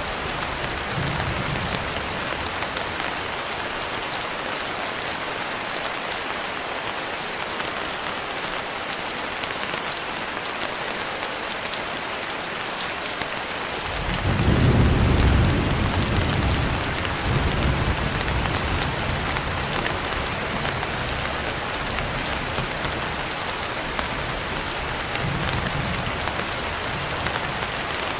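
Steady heavy rain hissing, with a low roll of thunder rumbling up about halfway through and slowly fading, and fainter distant rumbles near the start and near the end.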